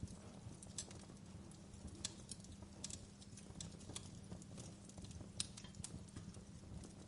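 Wood fire burning in a fireplace: irregular crackles and pops, a few louder ones, over a low steady rumble.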